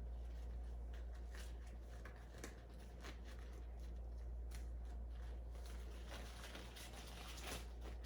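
Sterile gloves and their paper wrapper rustling and crinkling as the gloves are pulled on, with scattered small crackles, busiest near the end, over a low steady hum.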